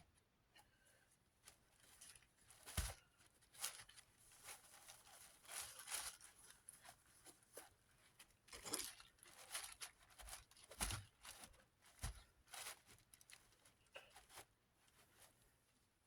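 Faint, irregular rubbing and rustling strokes from a plastic fan blade being wiped and handled during cleaning, with a few soft knocks.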